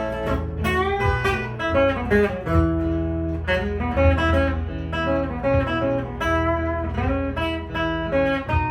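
Instrumental guitar break on a Mitchell guitar: melody notes, some with slides, played over a looped strummed accompaniment from a Boss loop pedal.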